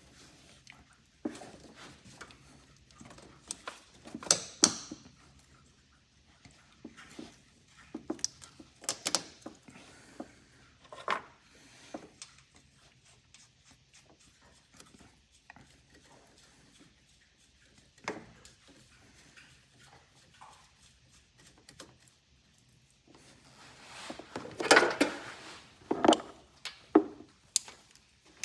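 Hand tools clinking and knocking on metal during work on a car's engine, in scattered short bursts with a busier, louder run of clatter near the end.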